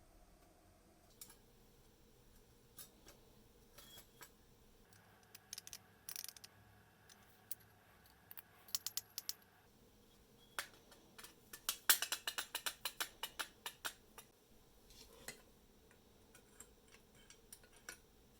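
Light, scattered clicks and taps of small parts and hand tools being handled, with a quick run of clicks a little past the middle.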